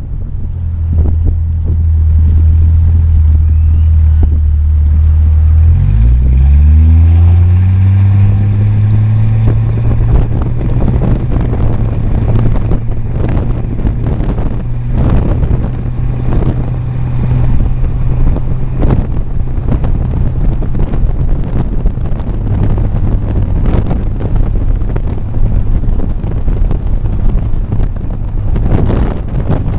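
Jeep Cherokee XJ driving, its engine a low steady drone whose pitch climbs about six seconds in and then holds at the higher note, with wind buffeting the microphone.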